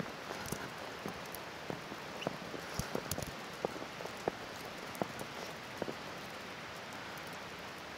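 Wet snow ticking irregularly against a car's windshield, a few light hits a second, over a steady hiss of road noise while driving through a snowstorm.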